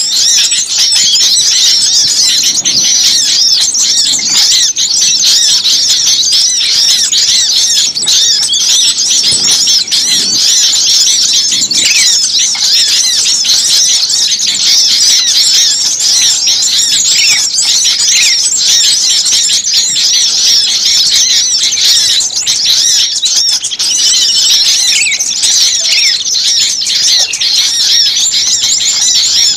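Dense, loud chorus of many small songbirds chirping and twittering without a break, a bird-trapping lure recording meant to draw in small birds.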